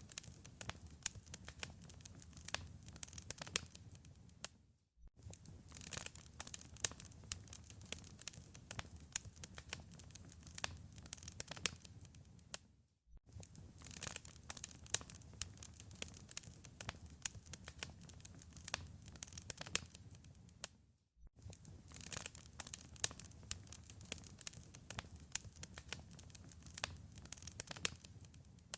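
Wood fire crackling in a fireplace: dense, irregular pops and snaps over a low rumble. The sound drops out briefly about every eight seconds.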